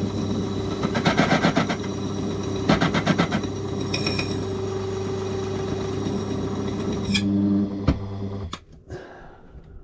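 Electric key-cutting machine running with a steady hum while its cutter takes the key blank deeper, with two short spells of grinding contact about one and three seconds in. The motor is switched off about seven seconds in and winds down.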